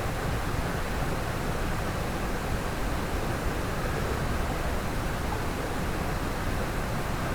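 Mountain stream rushing steadily over rocks: an even, unbroken water noise.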